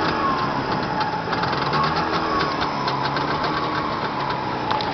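Jawa 634 two-stroke parallel-twin engine running steadily with a slightly wavering pitch and a fast, buzzy ticking, typical of a two-stroke. The engine is being run in after a rebuild, about 30 km on it.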